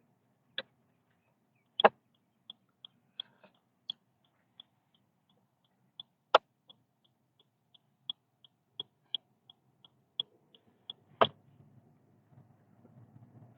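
A car's turn-signal indicator ticking evenly, about three ticks a second, with a few louder sharp clicks over it. Low road noise rises near the end.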